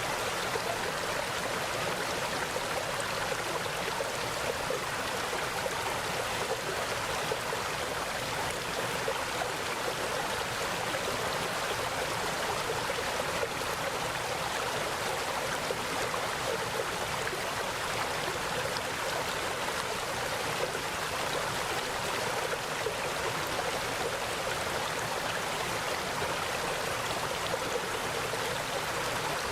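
Mountain stream flowing steadily over rocks, a constant rushing and gurgling of water with no breaks.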